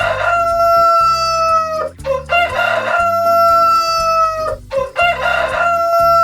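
Rooster crowing three times, each a long cock-a-doodle-doo of about two seconds, the last one running on past the end.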